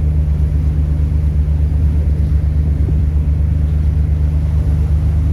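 Ferry engines running with a steady, deep drone.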